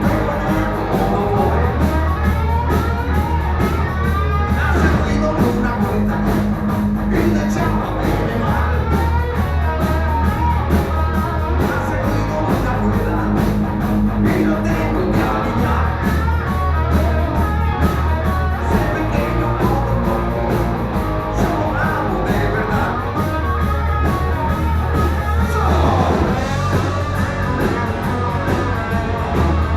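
Rock band playing a song live: electric guitar over a steady bass line and drums, with singing.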